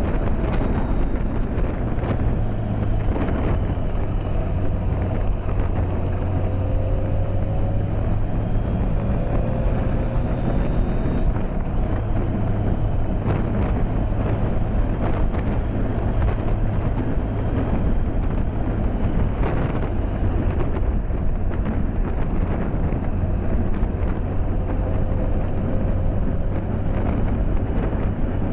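BMW K1200S inline-four engine running steadily at road speed, with wind rushing over a microphone inside the rider's helmet.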